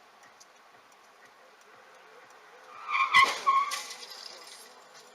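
Car crash on dashcam audio: about three seconds in, tyres squeal and a hard impact bang, followed half a second later by a second crunching hit, over faint road noise.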